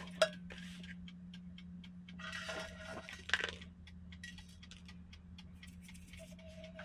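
A steady low hum, with scattered light clicks and clinks of dishes and utensils being handled.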